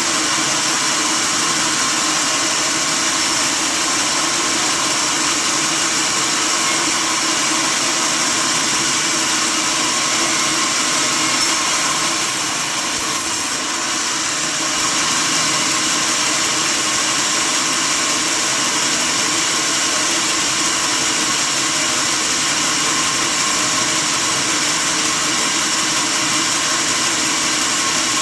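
Sawmill saw machinery running steadily: a dense, even mechanical noise with a constant hum. It dips slightly in loudness about halfway through.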